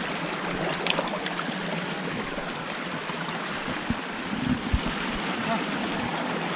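Water running steadily in a stream, with a few faint knocks.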